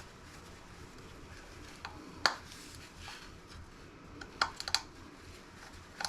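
Small, sharp clicks and taps of a small screwdriver and tiny Torx screws against a laptop circuit board: a single click, then a quick cluster of three or four, and one more near the end.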